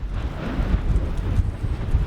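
Wind buffeting the microphone: an uneven, gusting low rumble with a hiss above it.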